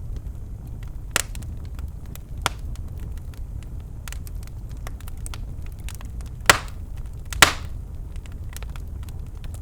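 Birchwood fire burning in a fireplace, crackling with a steady low rumble and many small snaps. Two loud pops come about a second apart in the second half.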